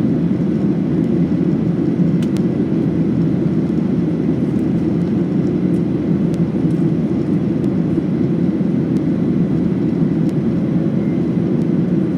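Steady, even roar of a Boeing 737-800 airliner's cabin during the climb after takeoff, the CFM56 turbofans and airflow heard from inside the cabin, a deep rumble that does not change.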